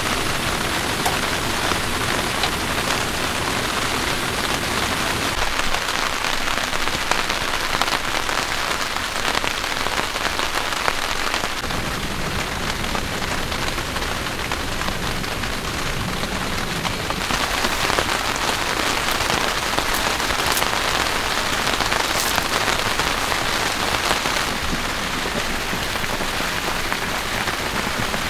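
Heavy rain falling steadily on a surface, with the odd louder single drop. Its tone shifts abruptly a few times.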